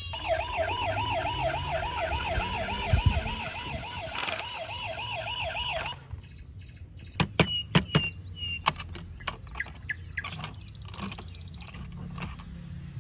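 Electronic toy siren warbling fast, about three to four wails a second, cutting off sharply about six seconds in. After it comes a run of sharp clicks and taps.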